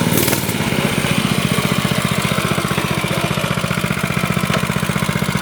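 Small engine of a mini motorcycle idling steadily with an even, rapid beat.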